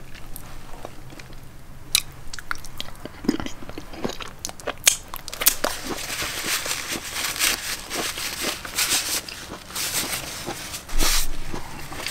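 A person biting and chewing crunchy food: scattered sharp clicks at first, then a dense crackling crunch from about halfway through.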